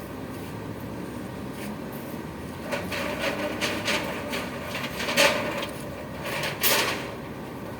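A run of irregular knocks and scrapes, the loudest about five seconds in and again near the end, over a steady low hum.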